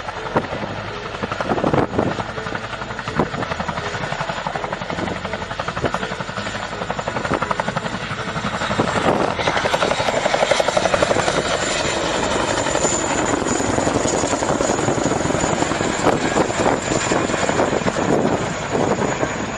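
Helicopter running, with a steady high turbine whine over fast rotor-blade chop. It grows louder about halfway through.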